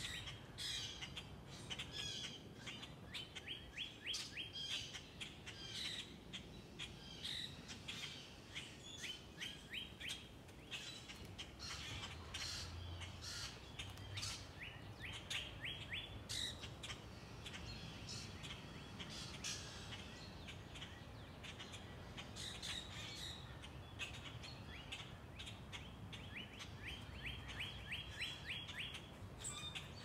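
Songbirds singing: a rapid trill of short, quick notes repeats every few seconds, with scattered chirps and calls between the trills.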